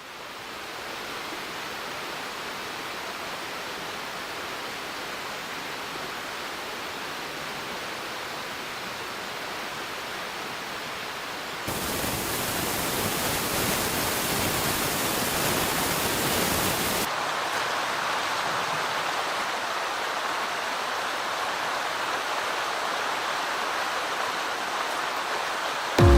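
Mountain stream rushing over rocks, a steady wash of water noise. It gets suddenly louder and brighter about twelve seconds in, as from a closer, stronger stretch of current, then changes again about five seconds later.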